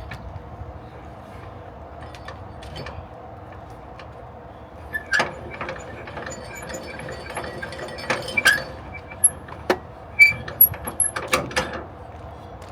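Scattered clicks, knocks and brief squeaks of gear being handled, over a low steady hum. The handling noises come in a short cluster about five seconds in and then more thickly near the end.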